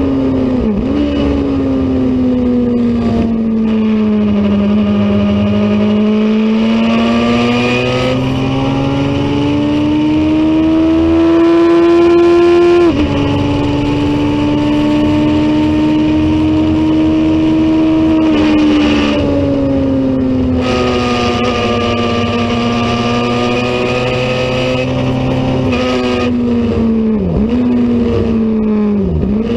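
Racing motorcycle engine running hard, its pitch rising and falling with the throttle. Partway through it climbs steadily, then drops sharply at an upshift, and there are brief quick dips near the start and the end.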